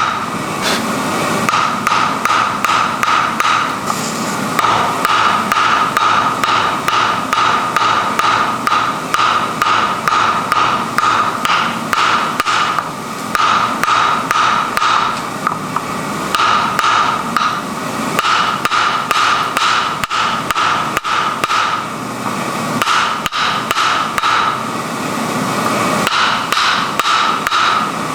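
Hammer blows forging wrought iron, several strikes a second in runs of a few seconds with short pauses between, over a steady high tone.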